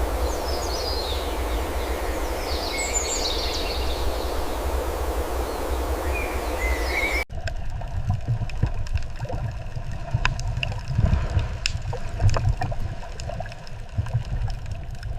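Rushing water with small birds chirping over it. About seven seconds in it cuts abruptly to a low rumbling, wind-like outdoor noise with scattered rustles and clicks.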